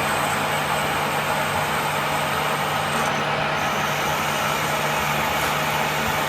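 A machine running steadily, an even noise over a constant low hum, with no strikes or breaks.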